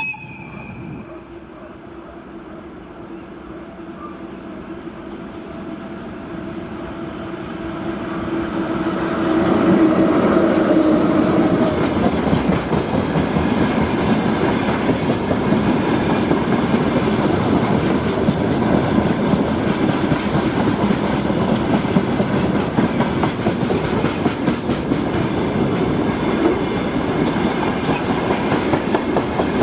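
A VL8M electric locomotive hauling a freight train approaches with a steady hum that grows louder, and passes about ten seconds in. The freight wagons then roll past close by, with a loud steady rumble and the clickety-clack of wheels over rail joints. There is a short sharp sound right at the start.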